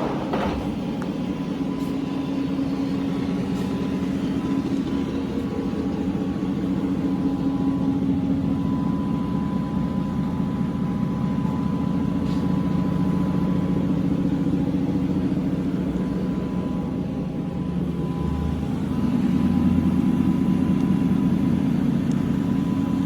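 Large 75-inch Tru-Turn engine lathe running, a steady mechanical hum with a faint higher whine, growing somewhat louder near the end.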